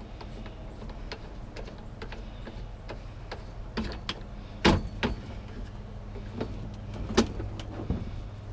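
Scrap metal being handled and loaded: scattered knocks and clanks, the two loudest about halfway through and about two-thirds of the way in. A steady low hum runs underneath.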